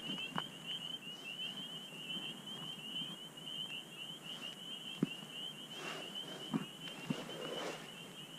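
Night insects chirping in a steady, high, evenly pulsed trill, with a few soft knocks about five, six and a half and seven seconds in.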